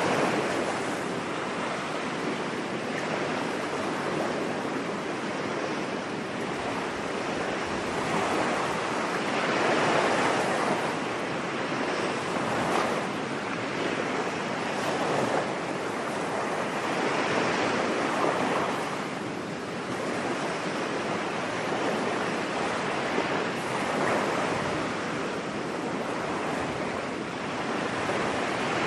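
Ocean waves breaking and washing on a beach in a steady ambience, the surf swelling and easing every few seconds.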